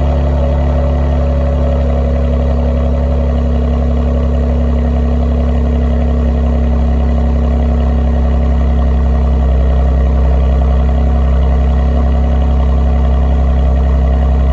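Kia Stinger GT2's twin-turbo V6 idling steadily through a Borla S-Type aftermarket exhaust, shortly after a cold start.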